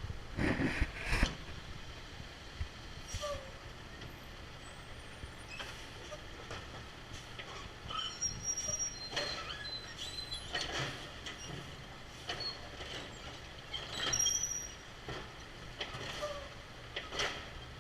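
Garbage truck working in the street: a loud cluster of thumps about a second in, then scattered knocks and short high squeaks.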